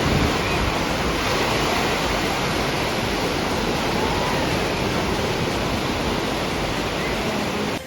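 Steady rushing water, an even roar that cuts off abruptly near the end.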